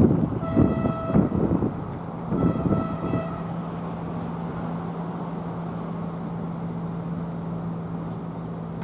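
NJ Transit commuter train sounding its horn in two blasts about a second long each, over clunking wheels, then a steady low hum from the train.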